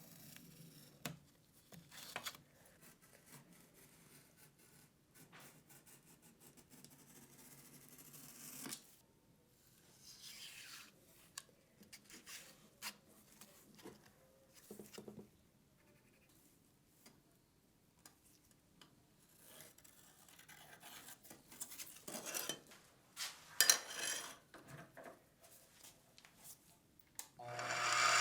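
Small metal parts being handled: scattered clicks and short scraping and rubbing sounds with quiet gaps, busier and louder about three-quarters of the way through.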